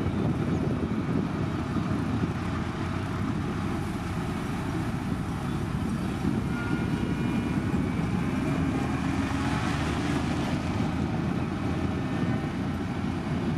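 Heavy diesel machinery running steadily, most likely the SANY STG190C-8S motor grader working gravel, with a faint whine for a few seconds in the middle.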